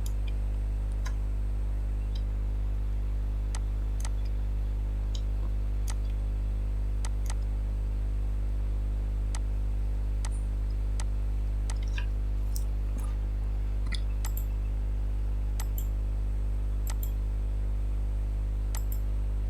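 Steady low electrical hum with a buzz of overtones above it, like mains hum picked up by the recording gear. Faint scattered clicks sound here and there over it.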